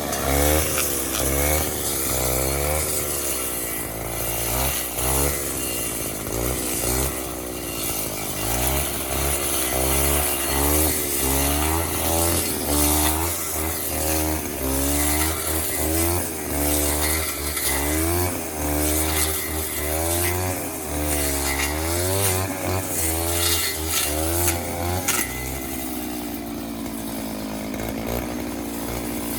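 The engine of a 25-year-old Robin grass cutter, running normally, being revved up and down over and over, with its pitch rising and falling every second or two. Near the end it settles to a steadier, lower run.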